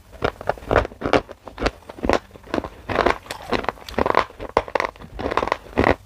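Close-miked chewing of black shale clay: a steady run of crisp, gritty crunches as the lumps are ground between the teeth, about three a second.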